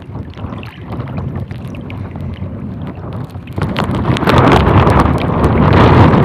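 Strong wind buffeting the microphone, a rough rumbling gusting noise that grows much louder about four seconds in.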